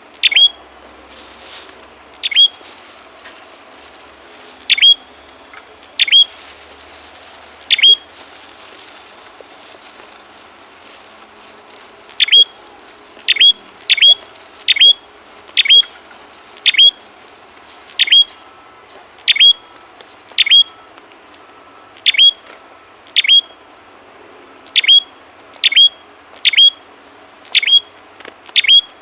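Bird-lure call of the prenjak kepala merah, a small Indonesian songbird: short, sharp chip notes that sweep up, repeated about once a second with a pause of about four seconds early on, over a faint steady hiss.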